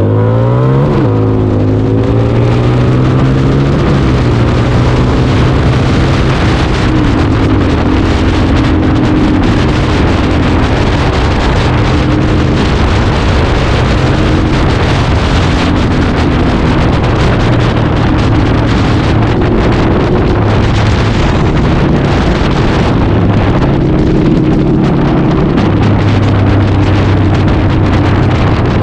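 Harley-Davidson V-Rod's V-twin engine running under way at a fairly steady speed, with heavy wind noise on the microphone. About a second in, the engine pitch rises and then dips briefly before settling.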